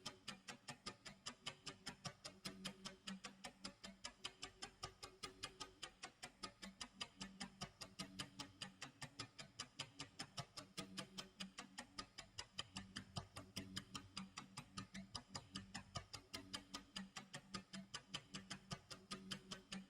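Quiet clock tick-tock sound effect, sharp even ticks about two a second.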